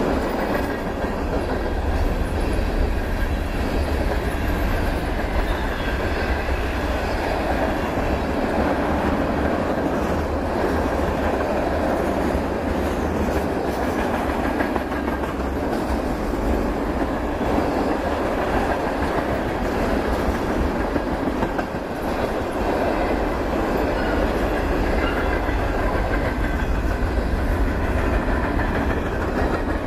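Freight train of tank cars and covered hopper cars rolling past, a steady rumble and rattle of steel wheels on the rails.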